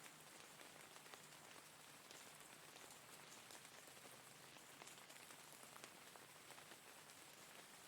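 Steady, faint rainfall, with many single drops making sharp little ticks through the even hiss.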